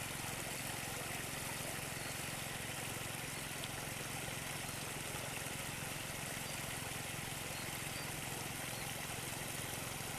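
Engine of a Quick H140 rice combine harvester idling steadily, an even hum that does not change.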